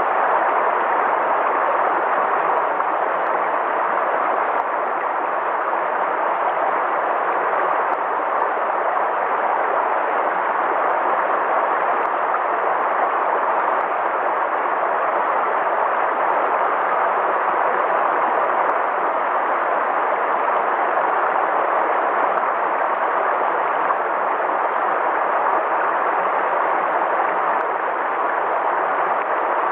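Flowing river water, a steady unbroken rush that neither rises nor falls.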